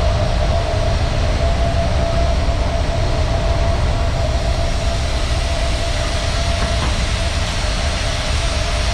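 Ship's engine room machinery running: a loud, steady din with a deep rumble and a constant whine.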